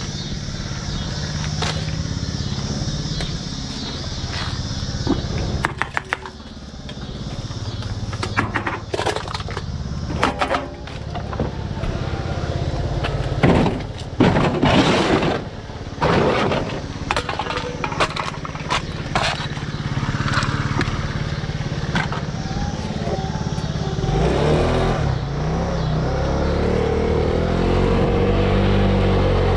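A vehicle engine running steadily, with a run of clicks and knocks in the middle. Near the end the engine speeds up, its pitch rising.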